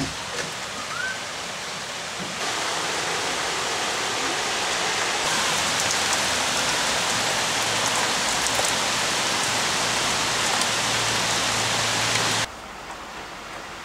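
Heavy rain pouring down onto tree foliage as a steady hiss. It grows louder about two seconds in and again about five seconds in, then drops away sharply near the end.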